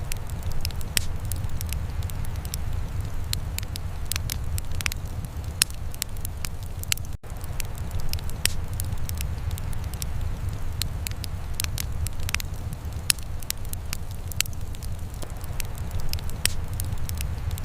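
Wood fire in a fireplace crackling, with irregular sharp pops over a steady low rumble. The sound cuts out for an instant about seven seconds in.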